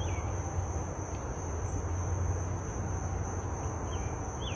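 Insects trilling steadily at a high pitch over a continuous low hum, with a few short, faint chirps near the start and end.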